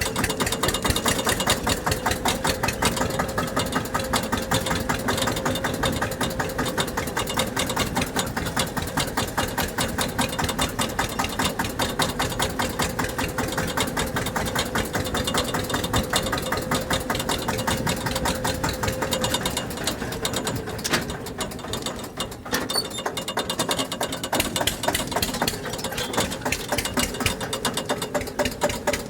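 Tractor engine running steadily with a rapid, even firing beat, easing briefly about three quarters of the way through before picking up again.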